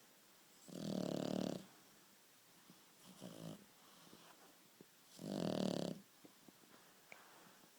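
A sleeping dog snoring: two loud snores, each about a second long and some four and a half seconds apart, with a fainter breath between them.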